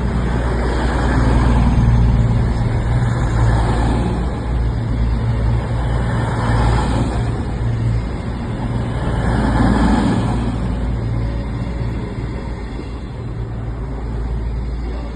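Railway train rumbling at the station: a steady low drone that swells louder three times.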